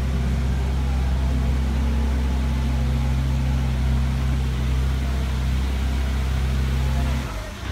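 A jeep's engine idling with a steady low hum, which breaks off about seven seconds in.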